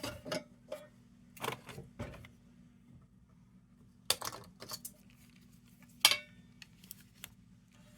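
Irregular light metallic clinks and knocks from a Dietz Top Lift tin lantern being handled and turned over, about a dozen in all, the sharpest about six seconds in, over a faint steady low hum.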